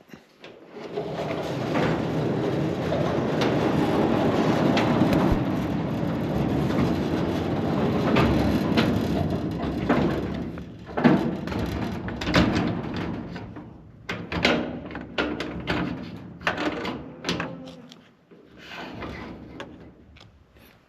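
A large sliding door rumbling along its track for several seconds as it is pushed shut, then a series of clanks and knocks as it closes.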